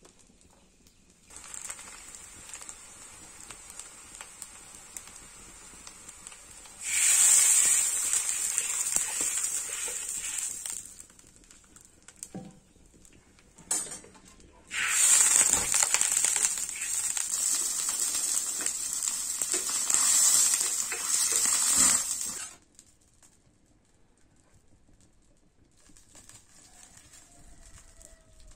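Chopped onion and beef mince sizzling in hot oil in a pan over a wood fire. The sizzle is loud twice, from about seven to eleven seconds in and from about fifteen to twenty-two seconds in, and fainter in between and afterwards.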